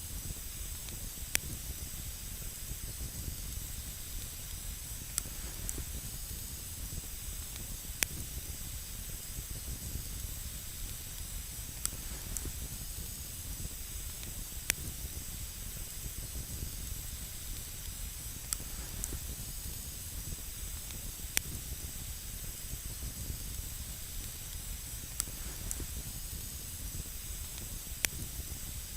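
Campfire burning with a steady hiss, with single sharp crackling pops from the wood every few seconds.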